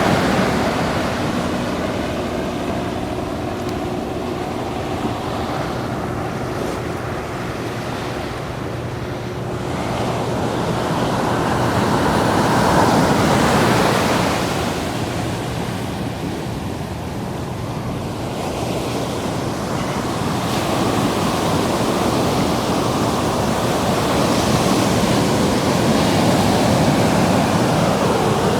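Ocean surf washing in at the water's edge, swelling and ebbing in slow surges every several seconds, with some wind on the microphone.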